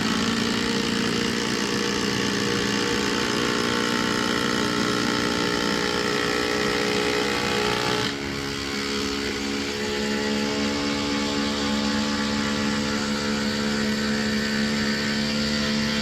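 Two oil-impulse impact drivers running flat out at once, driving fasteners into timber: a steady, loud motor whine with the dense rattle of the hydraulic impulse mechanism. About halfway through the sound shifts and drops slightly in level.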